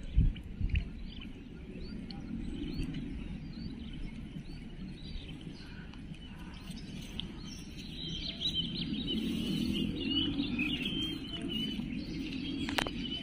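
Small birds chirping over a low, even background noise. The chirps are scattered at first and come thick and fast for a few seconds in the second half, and there is one sharp click near the end.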